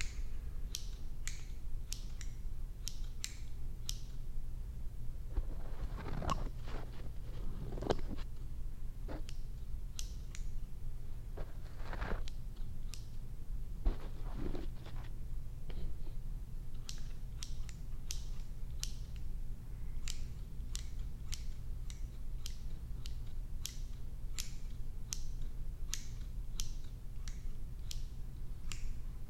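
Hair-cutting scissors snipping close to the microphone in quick runs, about two cuts a second in the last third, with softer rustling sounds in between over a low steady hum.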